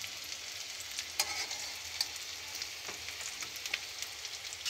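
Banana-blossom patties frying in shallow oil in a metal wok: a steady sizzling hiss with scattered sharp crackles.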